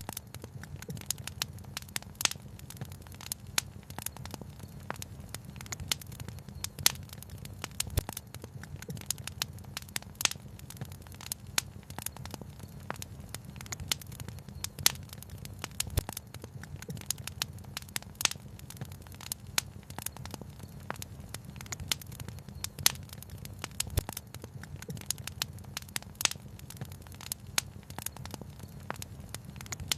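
Wood fire crackling, with frequent irregular sharp pops and snaps over a steady low rush of water.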